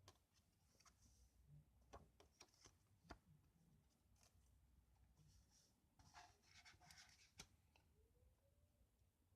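Near silence, with faint scattered clicks and a short rustle about six to seven and a half seconds in.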